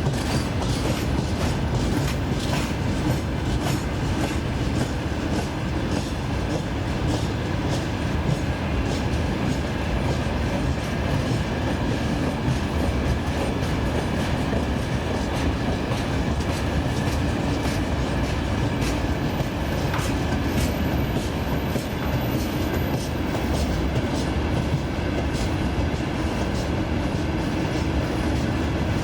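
Freight train wagons rolling past at steady speed, their wheels clacking repeatedly over rail joints under a continuous heavy rumble.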